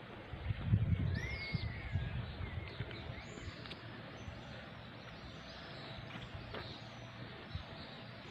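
Birds chirping in short rising and falling calls over a steady outdoor hiss, with low rumbling bumps on the microphone in the first couple of seconds.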